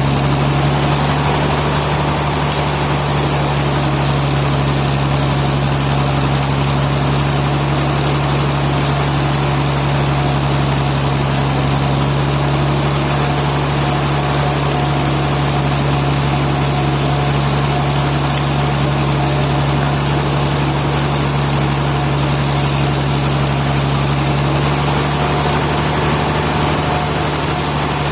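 A sawmill's engine running steadily: an even, unbroken drone that holds its pitch and level.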